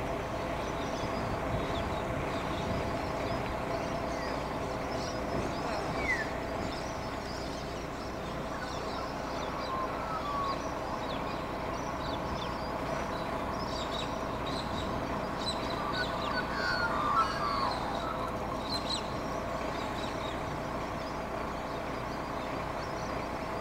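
Birds chirping and calling, most busily in the second half, over a steady mechanical hum with several held tones.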